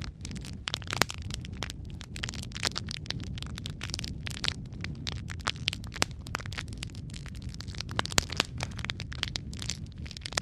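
Wood fire crackling in a fireplace: a dense run of sharp pops and snaps, several a second, over a steady low rumble of the flames.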